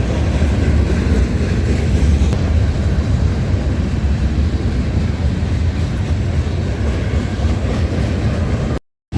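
Train rumbling past, a steady low rumble of rolling rail cars, cutting off abruptly near the end.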